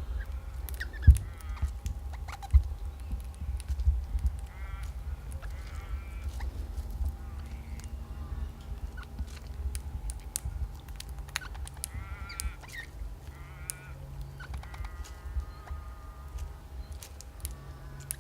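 Birds calling: several short nasal calls, some in quick runs, over a steady low rumble, with scattered sharp clicks.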